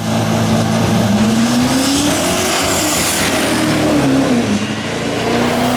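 Diesel drag-racing truck engine revving, its pitch rising and falling several times over a loud rushing noise.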